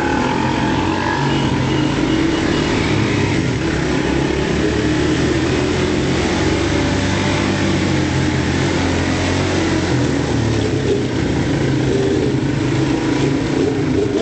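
Motorcycle engines running steadily as the bikes ride along, a continuous drone whose pitch wavers a little.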